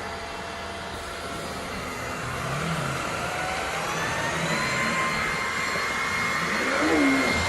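LEVOIT VortexIQ 40 cordless stick vacuum running with a steady whooshing motor sound. About three seconds in, its whine climbs in pitch and grows louder, then holds at the higher speed.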